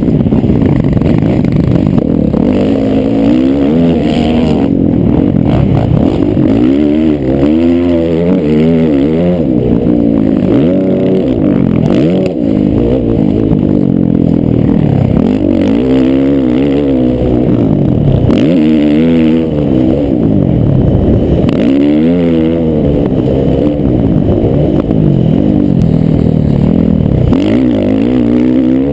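Several motocross bikes' engines revving hard and easing off over and over as they race around the track, the pitches of different bikes rising and falling against each other.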